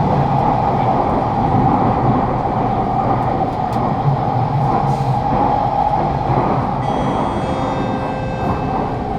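Kawasaki-CRRC Sifang C151A MRT train heard from inside a car, running through a tunnel with a steady rumble and a whine. About seven seconds in, several steady high tones come in and the sound eases slightly as the train starts slowing for the next station.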